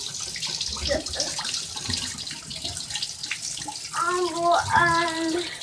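Water running steadily from the bare tub-spout pipe of a newly installed Moen single-handle tub/shower valve, turned to hot, a continuous splashing hiss.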